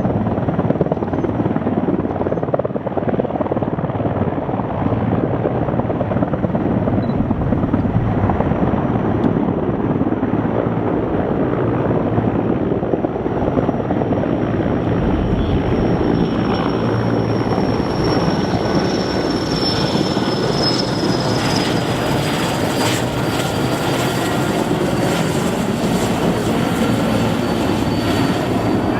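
Sikorsky S-64F Air-Crane helicopter flying close: steady, loud rotor and engine noise with a thin high whine. Past the midpoint the whine grows louder and slowly drops in pitch, and a regular rotor chop comes through.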